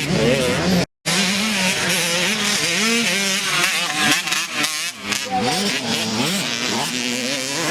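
Several dirt bike engines running and revving, their pitch rising and falling repeatedly as the throttle opens and closes and the gears change. The sound drops out briefly about a second in.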